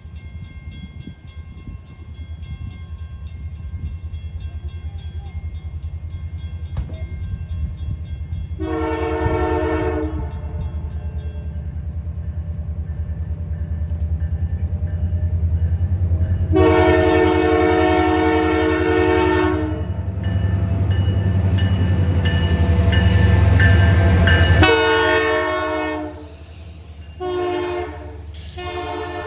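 Diesel freight locomotive approaching and passing a grade crossing, its engine rumble building and then falling off sharply about 25 seconds in. Its multi-chime air horn sounds a short blast, then a long blast, then further blasts near the end, over a crossing bell ringing during the first ten seconds or so.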